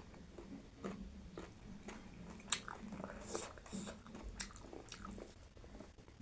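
Close-miked chewing and biting of a meal of mutton curry, rice and noodles, with irregular small clicks and wet mouth noises.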